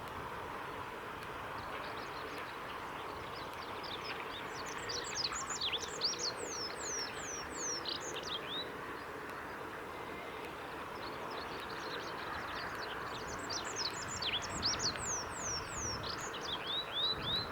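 Olive-backed pipit singing: two song phrases, each a rapid series of high, sharply falling notes lasting a few seconds, over a steady background hiss.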